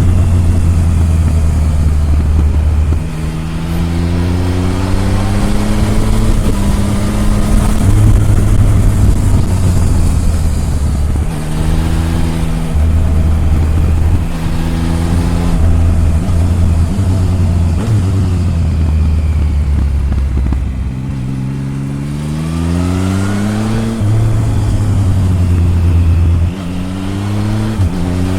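Triumph Tiger 1050's inline three-cylinder engine heard close at the exhaust, pulling hard with revs climbing several times over, then dropping back at gear changes and easing off between runs.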